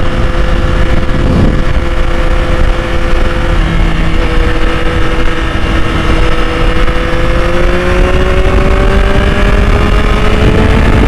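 2021 Yamaha MT-09's three-cylinder engine pulling at a steady speed, its note holding and then rising gradually over the last few seconds as the bike gently accelerates, over a heavy low rumble.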